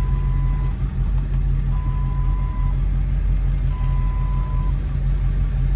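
A vehicle's reversing alarm beeping: three steady one-second beeps about two seconds apart. Under it is the steady low drone of an engine running.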